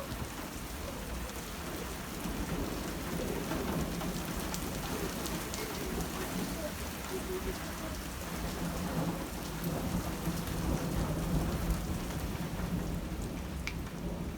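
Very heavy rain pouring steadily, with a low rumble of thunder swelling through the middle.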